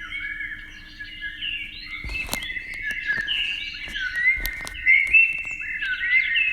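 Many birds chirping together in a dense, continuous chorus of overlapping short calls. From about two seconds in, sharp clicks come through now and then.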